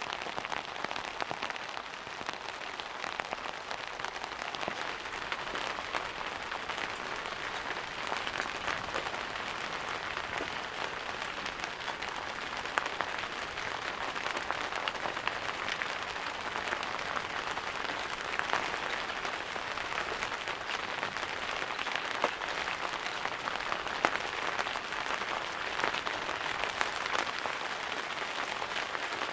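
Steady rain falling, an even hiss sprinkled with many sharp ticks of individual drops hitting a surface.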